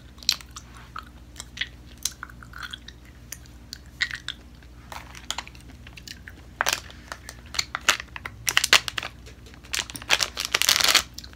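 Close-miked chewing of gummy fruit snacks: scattered sharp, wet mouth clicks that grow denser about halfway through. Near the end the plastic fruit-snack pouch crinkles in the hands.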